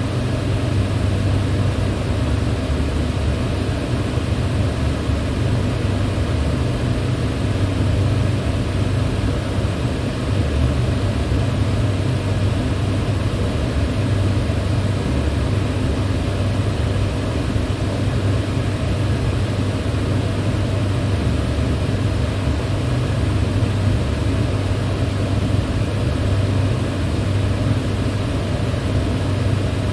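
Electric fan running steadily: a constant rush of moving air over a low hum, with no change in speed.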